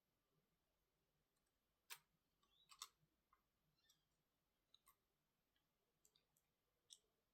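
Faint, irregular small clicks and light taps, about a dozen, some in quick clusters, as of small tools and laptop parts being handled on a work surface.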